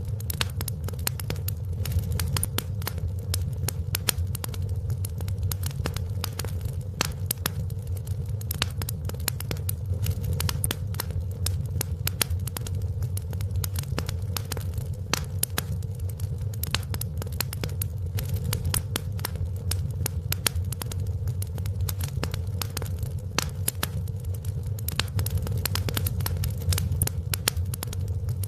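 Wood fire crackling in a fireplace: frequent sharp crackles over a steady low rumble.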